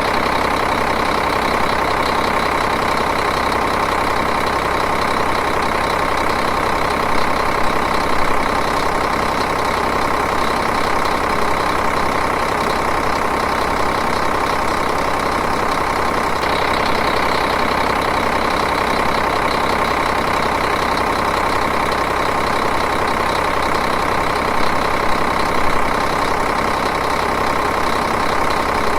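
Diesel engine idling steadily and evenly, with two brief slight swells in level.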